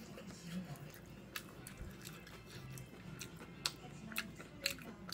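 Close-up chewing and mouth smacks from a mouthful of kimchi fried rice, with several sharp clicks scattered through, the loudest a little past three and a half seconds in.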